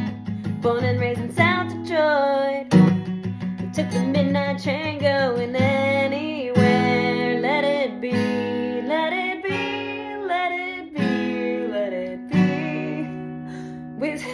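Music: strummed acoustic guitar with a sung melody held and wavering over the chords.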